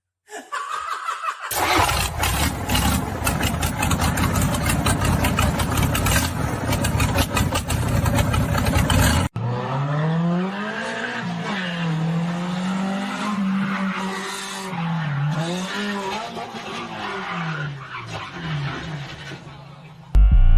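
Vehicle sounds from dashcam footage: loud rushing road noise with many clicks and knocks, cut off suddenly. Then a car engine whose pitch rises and falls repeatedly as it revs.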